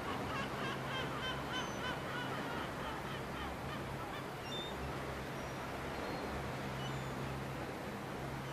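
A bird giving a rapid run of short, repeated calls, about three a second, which fade out after the first few seconds, over a steady outdoor hiss and a low hum.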